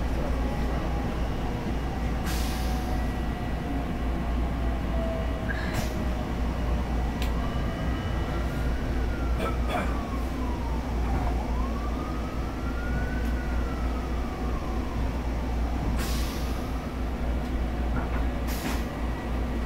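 Passenger train running, heard from inside the car: a steady low rumble with a few short clicks and rattles. About eight seconds in, a siren wails slowly up and down, rising and falling twice.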